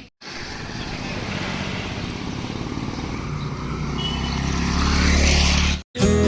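A motor vehicle running, growing steadily louder over a few seconds, with a low engine hum under a wash of road noise; it cuts off abruptly near the end.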